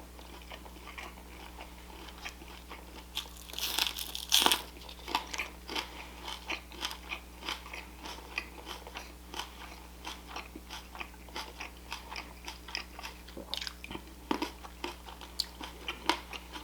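A person eating close to the microphone, biting and chewing crunchy food with wet, clicking chews. There are louder bites about four seconds in, then steady chewing at two or three chews a second.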